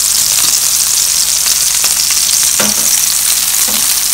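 Minced-meat cutlets frying in hot oil in a frying pan: a steady sizzle with small crackles, the patties cooking on their first side.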